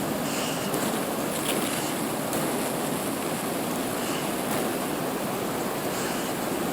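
Steady rushing wind noise, as from a snowstorm blowing across the microphone.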